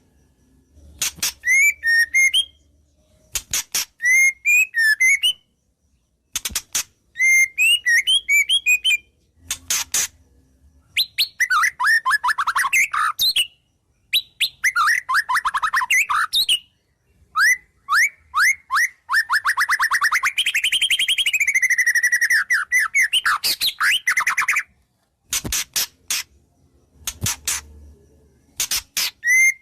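White-rumped shama singing in separate phrases with short pauses, mixing sharp notes, a chirping phrase repeated several times and rapid trills, the longest trill lasting about seven seconds in the second half. Its song is full of imitations of other wild birds.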